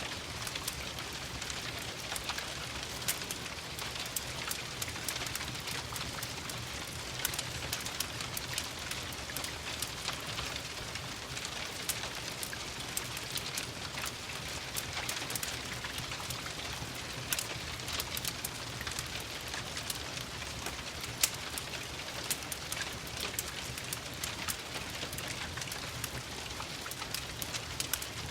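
Steady rain with a dense scatter of sharp crackles and pops from a wood fire, one pop louder than the rest past the middle.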